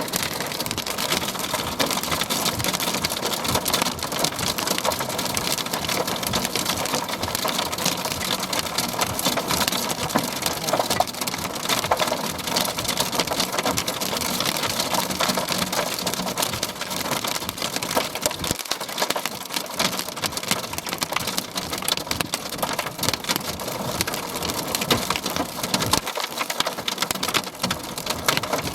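Heavy rain from a thunderstorm, a dense, steady stream of drops striking a hard surface.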